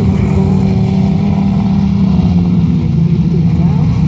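Demolition derby car engines running loudly together in a steady, low drone.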